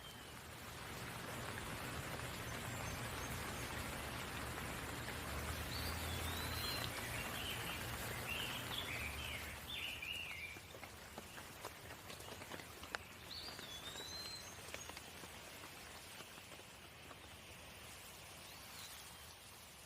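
Steady rain falling, heavier in the first half and easing after about ten seconds. A bird calls through it several times with short chirps that rise and fall, with a run of quick chirps in the middle.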